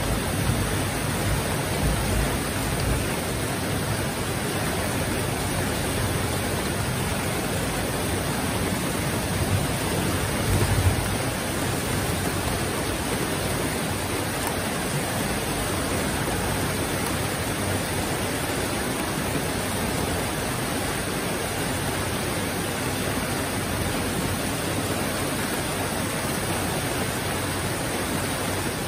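Heavy rain falling steadily, an even, unbroken hiss, with a brief low rumble about ten seconds in.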